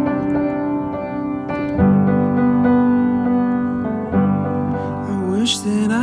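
Song intro on piano: sustained chords that change about every two seconds, with a few sliding notes near the end.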